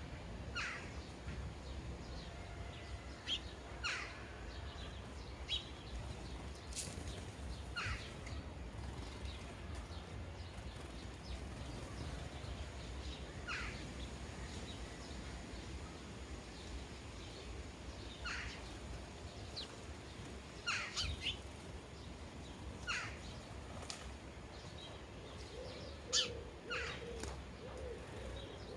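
Sparrows chirping at a bird feeder: short, separate chirps scattered every second or two. From a little before the end, a dove gives a low, repeated cooing call.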